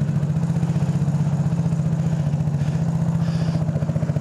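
A 150cc go-kart engine idling steadily with an even, rapid pulse. It is running with the intake snorkel disconnected, through a broken exhaust whose back end has fallen off.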